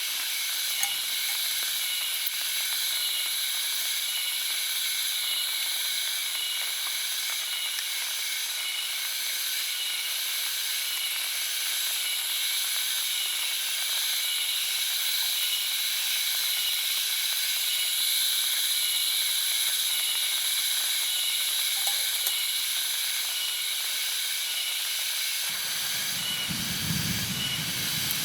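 Steady high hiss of forest ambience, with several high tones pulsing in a regular rhythm over it; a low rumble comes in near the end.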